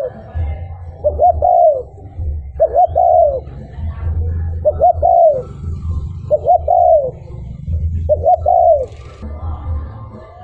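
Spotted dove cooing over and over, about six phrases, each two short notes and then a longer note that falls away, coming roughly every second and a half to two seconds. A steady low rumble runs underneath.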